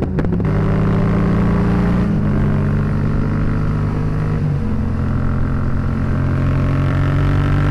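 Motorcycle engine pulling hard up a highway on-ramp under acceleration, with wind rushing past; the engine note steps twice as the rider shifts up through the gears.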